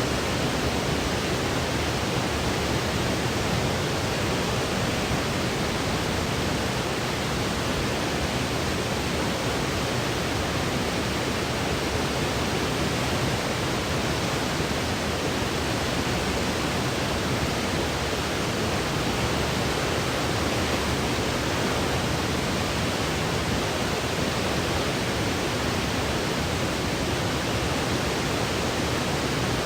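Steady white noise for sleep: an even, unchanging hiss at a constant level.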